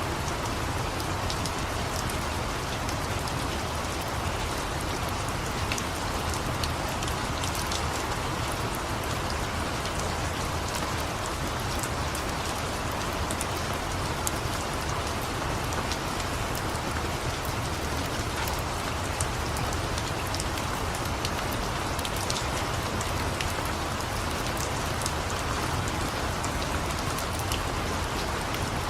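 Steady rain falling, with many small sharp crackles and ticks scattered throughout from a wood fire burning in a fireplace.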